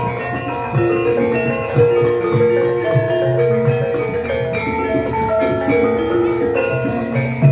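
Javanese gamelan playing a gending: bronze metallophones ring overlapping melodic notes over repeated kendang drum strokes.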